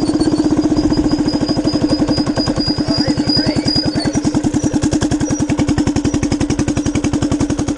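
Minibike's small engine running steadily at a constant speed, with an even, fast chugging beat.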